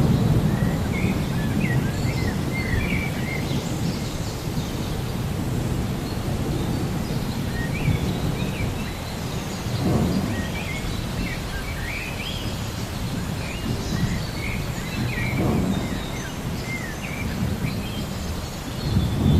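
Thunderstorm ambience: steady rain with low rolling thunder that swells a few times, and small birds chirping over it.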